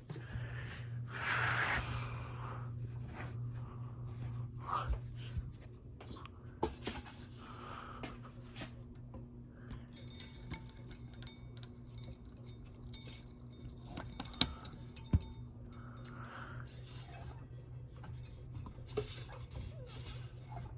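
Ceiling fan motors running with a steady low hum, with scattered clicks and light clinks over it. A second, higher hum stops about three-quarters of the way through.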